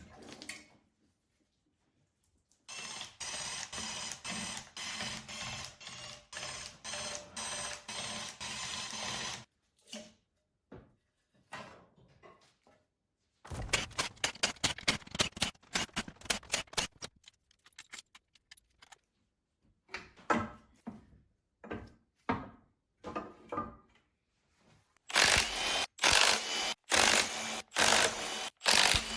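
Several bursts of rapid, rhythmic mechanical clicking and whirring from a tool, with a steady hum under some of them, and scattered knocks in between.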